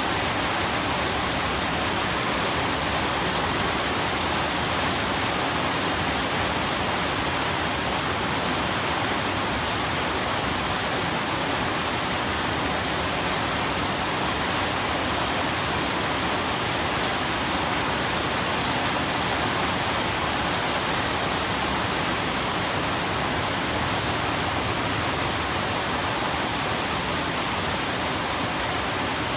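Steady rain falling, a constant even hiss with no distinct drops, thunder or change in level.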